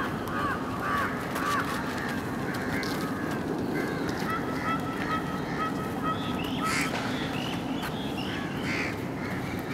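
Birds calling: a series of short calls, including a run of evenly spaced notes at about two a second in the middle, over a steady background hum.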